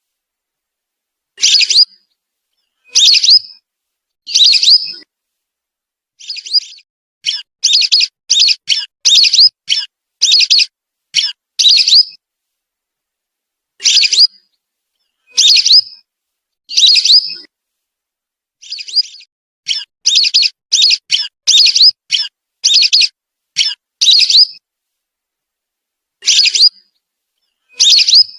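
Whistling ducks (belibis) giving high, rising whistled calls. Some come singly and some in quick runs of five or six notes, with short silent gaps between groups. This is a recording played to lure the birds in.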